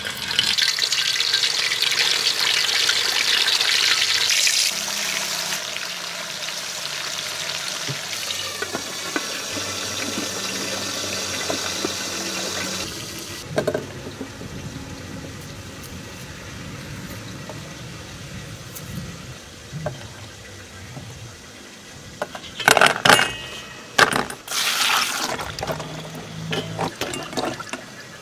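Chicken sizzling as it is lowered into hot oil in a metal pot for deep frying, loudest at first and dying down over about thirteen seconds. Quieter kitchen handling follows, with a few sharp, loud clattering sounds near the end.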